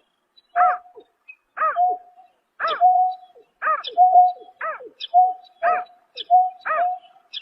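Greater painted-snipe calling at night: a steady series of about seven calls, one a second, each a short flat note run together with a higher arched note.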